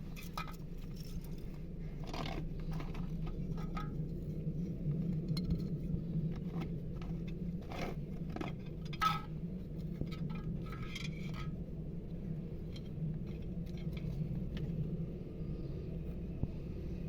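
Scattered light clinks and scrapes of small hard objects being handled, thinning out about two-thirds of the way through, over a steady low hum.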